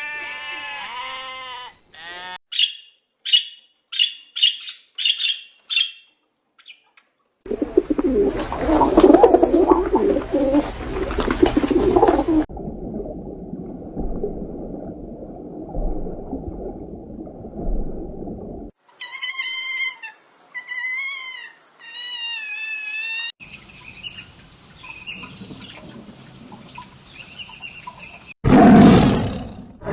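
A run of short animal-sound clips cut one after another: a wavering bleat at the start, a quick series of short high chirps, a loud rough roar, a few wavering pitched calls, and another loud roar starting near the end.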